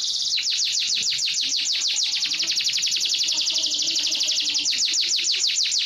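Canary singing: a buzzy trill gives way, just after the start, to a fast run of repeated falling whistled notes, about eight a second.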